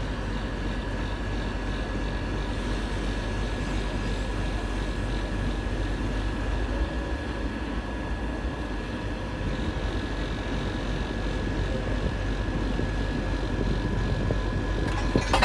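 Electric train running, a steady rumble with a thin steady whine over it. A sharp click near the end.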